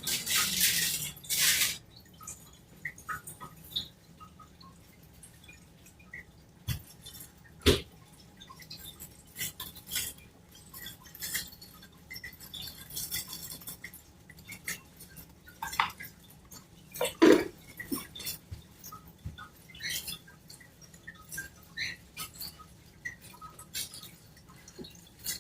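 Cockatiel moving about at a bowl of water: scattered light taps and clinks against the dish with small drips and splashes, a splashy rustle in the first two seconds and a few louder knocks about seven and seventeen seconds in.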